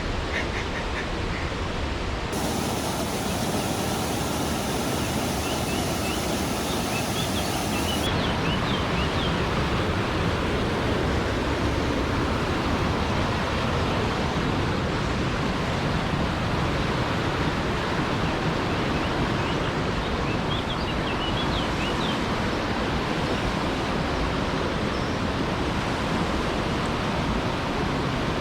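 Steady rush of a mountain waterfall's cascading water, an even unbroken noise, with a few short high chirps twice.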